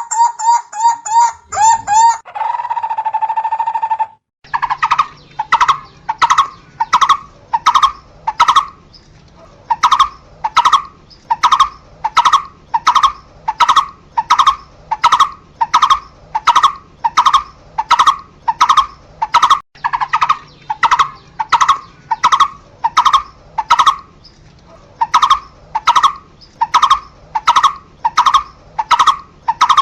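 Asian barbet calling: a quick run of notes and a briefly held trill. About four seconds in, a long steady series of repeated single notes begins, roughly two to three a second, broken by a few short pauses.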